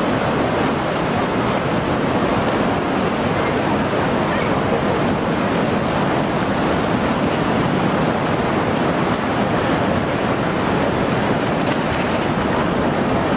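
Floodwater rushing through a town, a steady, unbroken roar of water.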